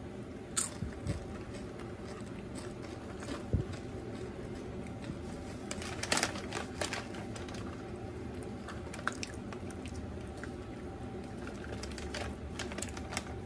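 Scattered crunches and small clicks of a tortilla chip being chewed and of snack packaging being handled: a crinkly snack bag and a paper box moved about on a table. The crunches come thickest about six seconds in, over a steady low hum.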